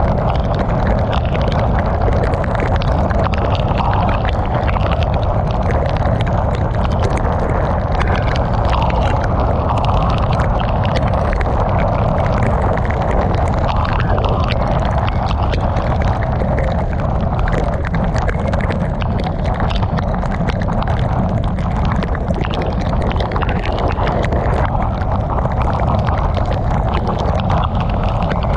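Heavy rain hitting a moving car, with steady road and wind rumble underneath; a dense, unbroken wash of noise.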